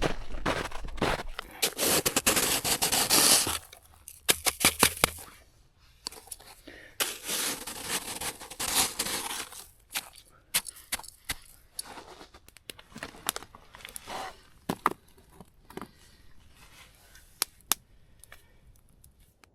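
Snow being scooped and packed into a container, crunching and scraping. There are two long spells of it, about two seconds and about seven seconds in, with scattered crunches and clicks between them that thin out toward the end.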